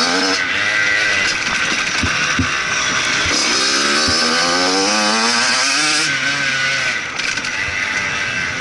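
Motocross bike engine revving hard, its pitch climbing steadily for a couple of seconds in the middle, then dropping sharply as the throttle is cut. A few sharp knocks come a couple of seconds in.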